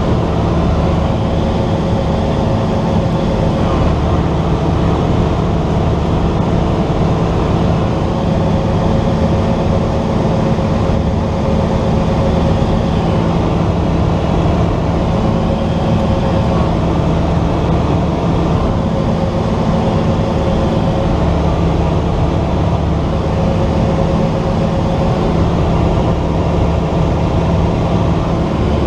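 Cessna 172's piston engine and propeller running at a steady speed, an even drone with no change in pitch or level.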